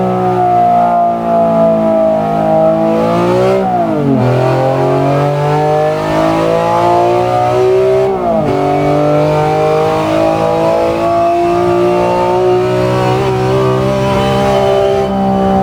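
BMW S54B32 naturally aspirated 3.2-litre inline-six engine running loud under load, its pitch climbing slowly. Twice, about four and eight seconds in, the pitch dips sharply and recovers, as at gear changes.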